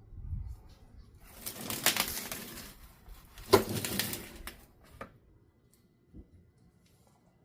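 Rustling and scraping from things being moved about, then a sharp knock followed by a few lighter clicks, before it goes quiet.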